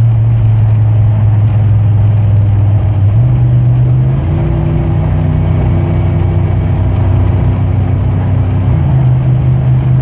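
1992 Chevy 3500 pickup's 5.7 L 350 V8 pulling under load through a cat-delete, high-flow exhaust, a deep steady drone. Its pitch steps up about three seconds in, changes again a second later and settles back lower near the end.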